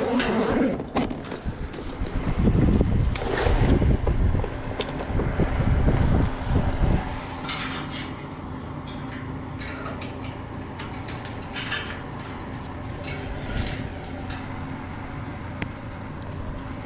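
Hands working with electrical wiring in an outdoor condenser unit: rustling and rough handling for the first several seconds, then scattered small clicks and scrapes over a steady low hum.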